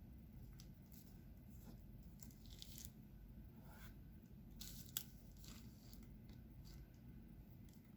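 Faint, scattered crinkling and light clicks from hands working on a diamond painting, with one sharper click about five seconds in, over a low steady room hum.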